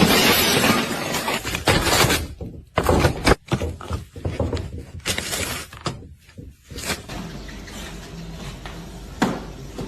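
Something breaking: a crashing clatter for about the first two seconds, then several separate knocks and clatters.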